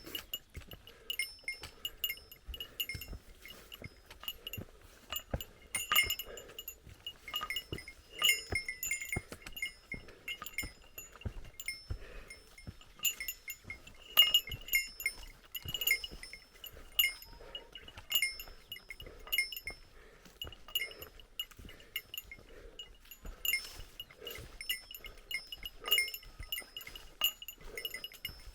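A small metal bear bell jingling over and over with each stride, its high ringing tones struck again at irregular moments, along with soft footfalls on the trail.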